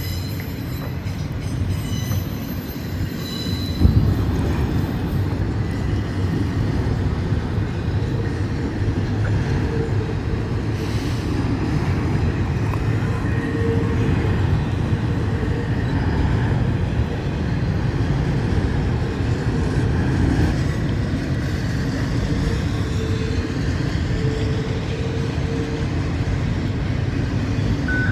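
Freight train picking up speed as its cars roll past, a steady low rumble on the rails with a single thump about four seconds in and brief faint wheel squeals now and then.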